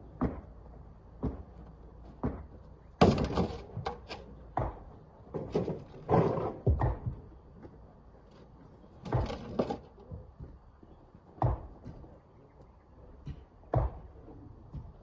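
Rocks being loaded by hand into a dump truck: irregular heavy thuds and knocks, with a few longer clattering bursts as loads of stone land.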